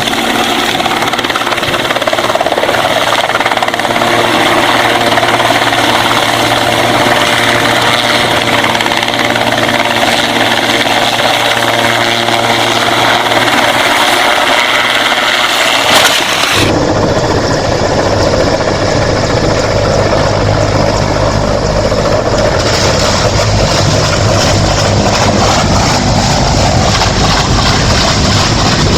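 Helicopter engine and rotor running loud and steady with a steady whine. About sixteen seconds in, the sound changes abruptly to a rougher, lower rotor noise.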